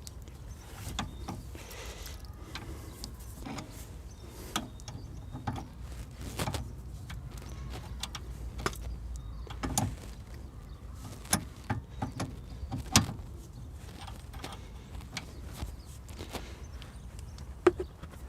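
Irregular metallic clicks and knocks of hand tools on a Nissan Qashqai+2's outer tie rod end as it is worked to unscrew it from the steering rod, the end stuck on the threads. The loudest knocks come about thirteen seconds in and again near the end.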